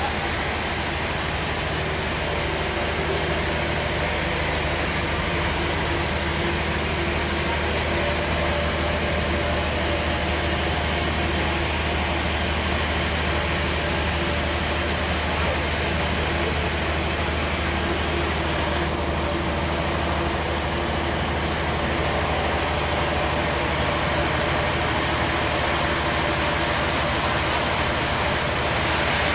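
Bandsaw sawmill running steadily: an even, unbroken noise with a steady low hum of the machine underneath.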